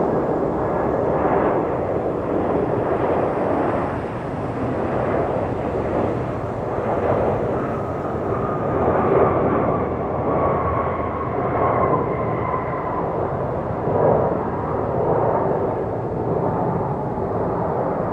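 Jet airliner's engines roaring past, a steady rumble with a thin whine that slowly falls in pitch through the middle of the clip.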